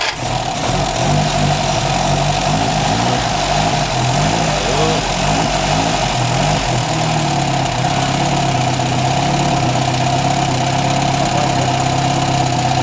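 Freshly rebuilt 1950 Simca 8 four-cylinder overhead-valve engine running just after starting. Its speed rises and falls unevenly for the first several seconds, then settles to a steady idle about seven seconds in.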